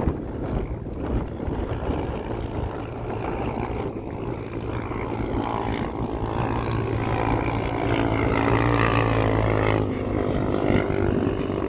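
Motorcycle engines running with a steady low drone, rising in pitch and getting louder from about five seconds in, then dropping back near the end.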